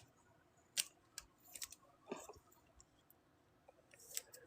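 A few faint, scattered clicks and soft rustles of trading cards being handled and shuffled.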